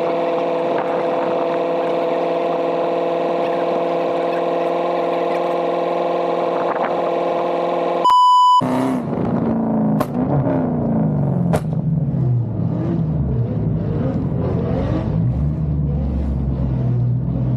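A steady droning hum for about eight seconds, broken by a short electronic beep. After the beep a car engine revs up and down repeatedly, with two sharp clicks a second and a half apart.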